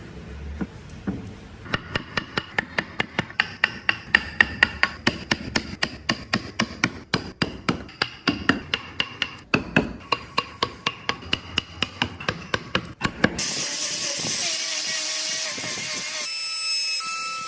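A hammer tapping a carving chisel into wood, sharp strikes about three a second. About thirteen seconds in this gives way to a rasp filing wood with a steady scraping.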